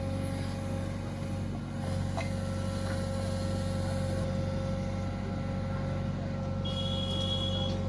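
Backhoe loader's diesel engine running steadily, with a constant whine above it and a brief higher tone near the end.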